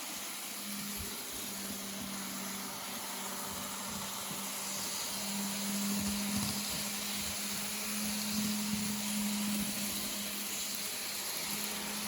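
N scale model train running along the track: a steady low motor hum under an even hiss, the hum growing stronger about halfway through.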